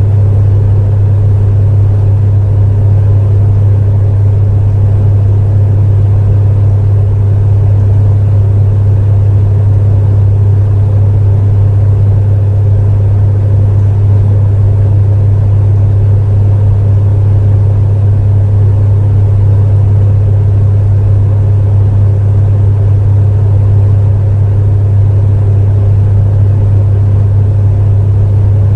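Electric space heater running steadily: a loud, constant deep hum with a fan's whir above it.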